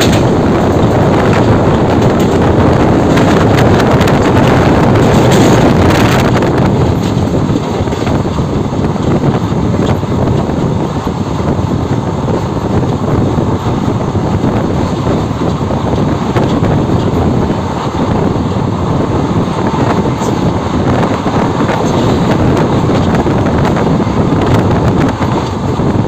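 Loud, steady wind buffeting the microphone over the rumble of wheels on rails: a passenger train running at speed behind a WDM3A ALCO diesel locomotive. It is a little louder for the first several seconds.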